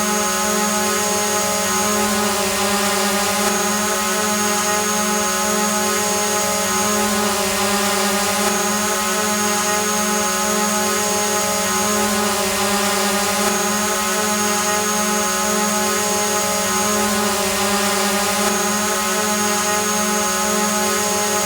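Drone hovering: a steady buzzing whine of its propellers and motors, even in pitch and level, with a faint high whistle that comes and goes about every five seconds.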